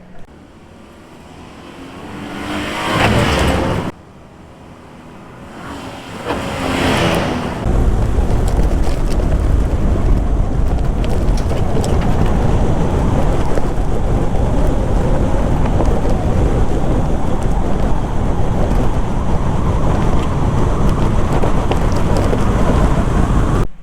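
Holden Rodeo prerunner driving hard on dirt tracks. Twice the vehicle sound builds to a peak and cuts off abruptly, then from about eight seconds in a steady, loud, low rumble of the truck under way.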